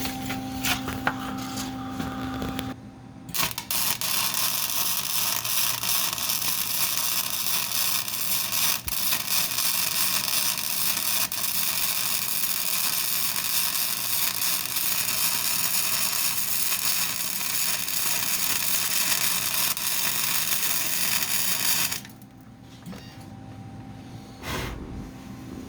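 Welding arc crackling and sizzling steadily for about eighteen seconds as a torque box is welded to the car's chassis, starting suddenly a few seconds in and cutting off near the end. A steady hum is heard before and after the weld.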